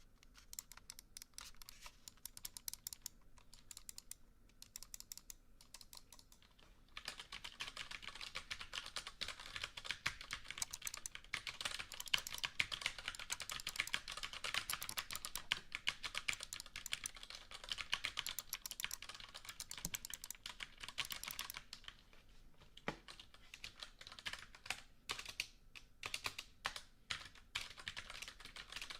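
Typing on a computer keyboard, the keys clicking in quick succession. The keystrokes are light and scattered at first, become a fast, dense run of typing about seven seconds in, and thin out to scattered strokes again after about twenty-two seconds.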